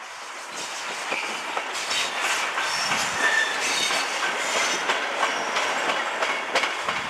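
A steam-hauled train rolls past, its wheels clacking over the rail joints with some high metallic squealing. It grows louder over the first couple of seconds as the train comes level.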